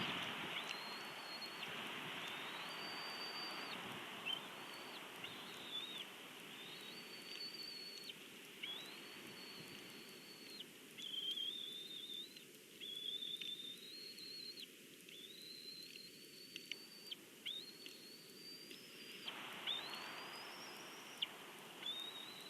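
Outdoor ambience: a soft steady hiss of wind, which thins out in the middle, under a repeated high note. The note is held for about a second each time, about a dozen times over, from a bird or insect.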